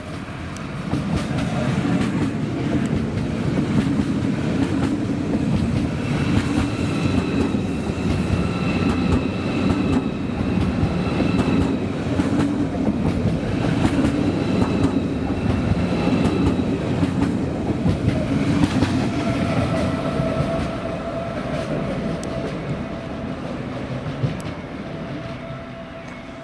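Passenger train running through the station: a steady rumble of wheels on rails with frequent clicks over the rail joints and a steady high whine, the sound easing off over the last few seconds.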